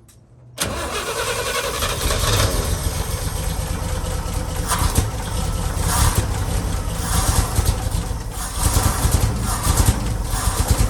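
International Harvester BG 241 inline-six engine cranked on the starter and firing, starting abruptly about half a second in and running unevenly, surging and dipping. It is being brought back to life after sitting 24 years.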